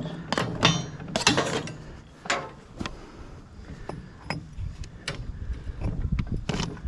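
Irregular metal clanks and clicks of a mower's PTO driveshaft being handled and worked onto the tractor's PTO stub. The knocks come thickest in the first two seconds or so, with a sharper pair near the end.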